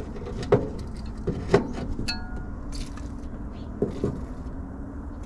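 Scattered clinks and knocks of hand tools and engine parts being handled, one giving a short metallic ring about two seconds in, over a low steady hum.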